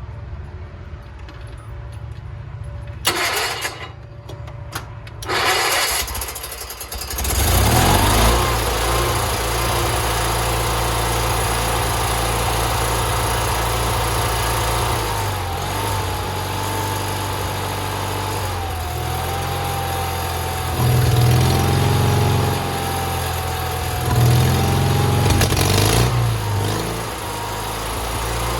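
Sears garden tractor engine being cranked in a few short bursts, catching about seven seconds in, then running steadily through its homemade welded exhaust, with two brief rises in engine speed near the end.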